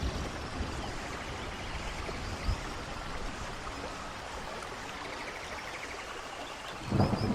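Steady rushing water of a waterfall with rain falling. Near the end a loud, low rumble of thunder breaks in suddenly.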